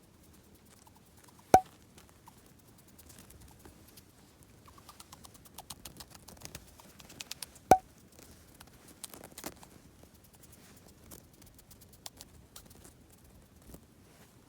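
Dwarf hamster's small feet pattering and scratching as it moves about, busiest in the middle. Twice, about a second and a half in and again near eight seconds, there is a much louder, very short sharp click with a brief ring.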